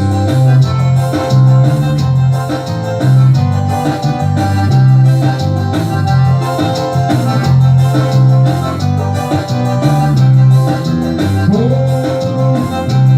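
Electronic keyboard music with organ and piano sounds: a repeating bass line under steady chords, with a rising slide in pitch a little before the end.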